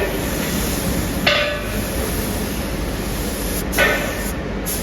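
Steady workshop machinery noise with two sharp metal clanks, one about a second in and one near the end, each ringing briefly.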